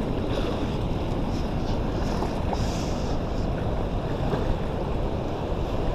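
Steady wind noise buffeting the microphone over a rush of water.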